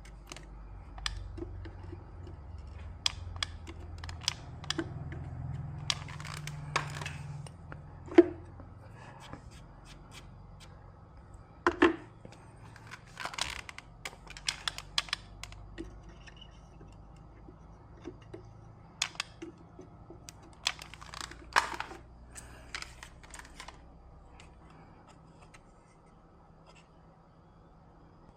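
Scattered clicks and taps of small tools and parts being handled at a repair bench, with the sharpest knocks a little after 8 seconds and near 12 seconds, over a low hum that fades after about 9 seconds.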